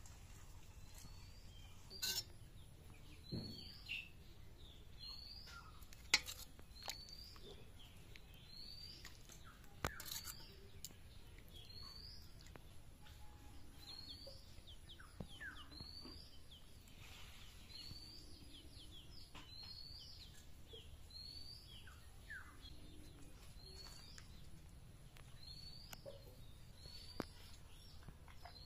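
A small bird chirping over and over, a short rising note about once a second, with a few sharp clinks of steel dishes and utensils, the loudest about six seconds in.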